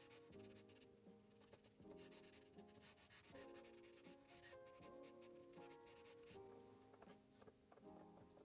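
Quick scratchy strokes of a pen or marker tip drawing on smooth marker paper, in short runs, over soft calm background music with gently held notes.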